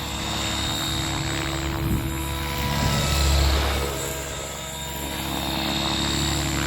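Electric 550-size RC helicopter (XL Power 550) flying 3D manoeuvres: steady rotor and motor sound whose loudness swells and fades, rising to a peak about three seconds in.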